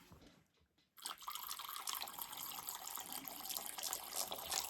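Water poured in a steady trickle into a small water bowl, topping it up. It starts about a second in.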